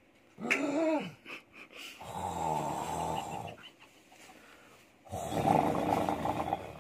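A man snoring loudly in his sleep: a short snort that rises and falls in pitch about half a second in, then two long rasping snores, the second starting about five seconds in.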